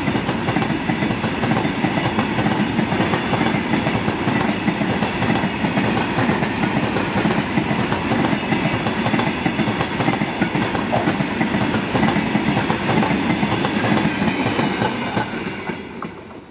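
Empty BCNA covered goods wagons rolling past at speed: a steady rumble and clatter of steel wheels on the rails, fading away near the end.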